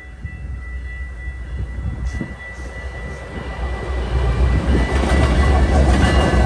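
A single Canadian Pacific diesel locomotive approaching and passing, its low engine rumble and wheel noise growing steadily louder. A steady high tone sounds throughout.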